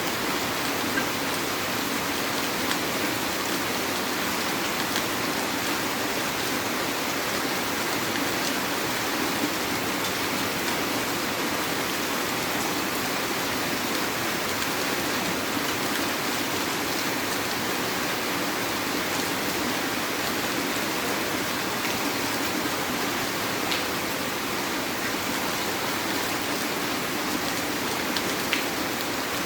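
Heavy rain falling steadily, with a few sharper drops standing out now and then.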